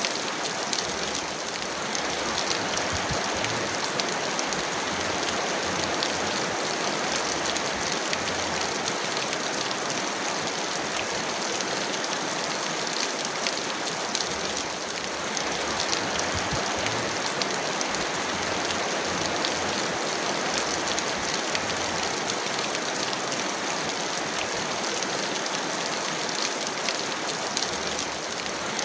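Heavy rain falling steadily: a dense, even hiss of rainfall with many small drop impacts pattering through it.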